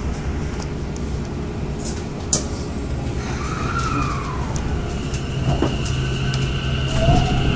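Tokyo Metro 10000 series train's Mitsubishi IGBT VVVF inverter as the train pulls away, over a steady running rumble. From about three seconds in, tones slide in pitch, a steady high whine sets in around five seconds, and a rising tone follows near the end.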